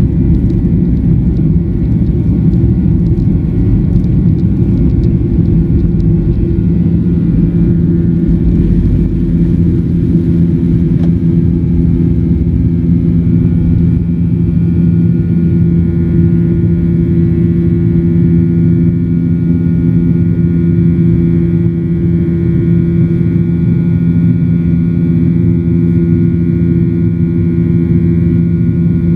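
Boeing 737-900ER's CFM56-7B jet engines heard as a steady low rumble with a hum, as inside the cabin; higher steady tones grow stronger about halfway through.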